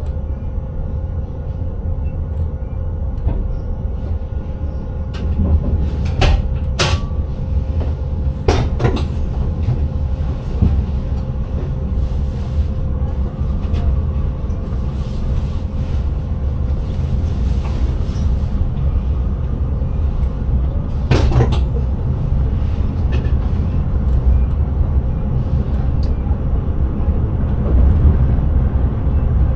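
Intercity train running, heard from inside the driver's cab: a steady low rumble with a faint steady tone, broken by a few sharp clicks or knocks about six to nine seconds in and again past twenty seconds.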